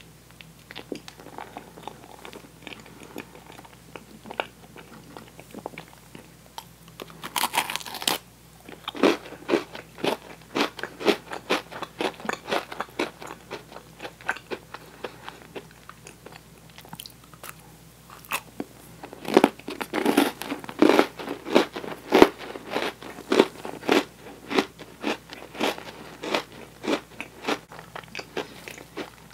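Close-miked eating: soft, sticky chewing of toasted marshmallow, then a crisp bite into an Oreo cookie about seven seconds in, followed by a run of crunching. After a quieter spell, a second, louder run of crunching starts at about nineteen seconds.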